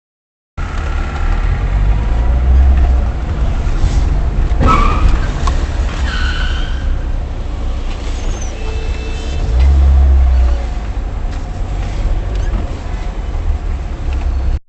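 Car road and wind rumble picked up by a dashcam microphone, with a short knock about four and a half seconds in.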